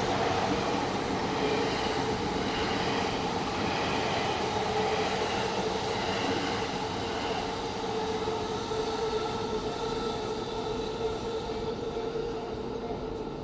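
Train running past on the rails: a steady rumble with a held mid-pitched tone, easing off slightly near the end.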